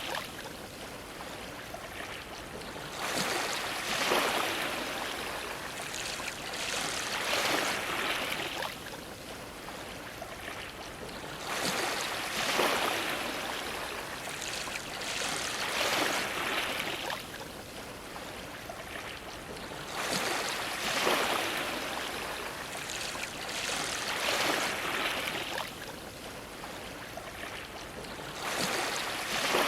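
Sea waves washing against a dock, the water rising into a rush of splashing about every four seconds and then falling back.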